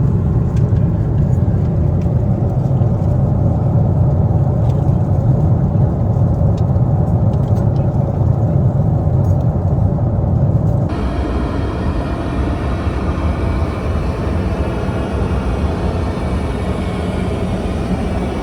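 Steady cabin noise of a Boeing 747-8 airliner: a low rumble of engines and airflow. About eleven seconds in, the sound changes suddenly to a thinner, brighter steady hiss.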